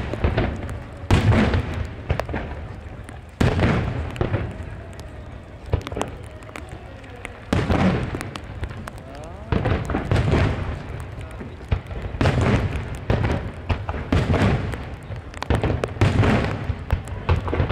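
Aerial firework shells bursting in a string of sudden booms, each trailing off over a second or so. The booms come more often in the second half.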